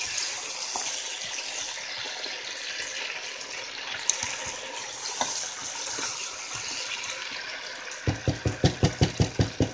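Potatoes and pork ribs sizzling in a pot with a steady frying hiss as paprika is stirred in fast with a wooden spoon, with scattered scrapes and clicks of the spoon. Near the end comes a quick run of low thumps, about five a second.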